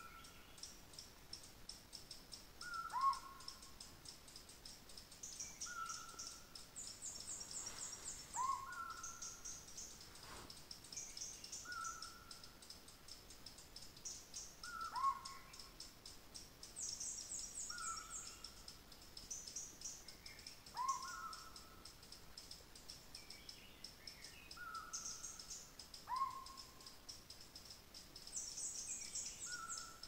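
A bird repeats a short two-note whistled call about every three seconds, a flat note followed by a lower note that rises then levels off. Behind it runs a constant high-pitched insect trill that swells in stronger bursts.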